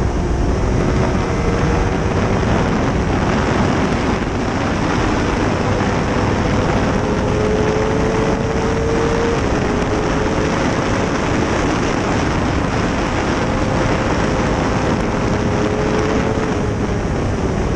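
Heavy wind rushing over the microphone, with a 2005 Honda CBR600RR's inline-four engine running underneath at fairly steady revs, its note creeping slowly up and easing back a few times.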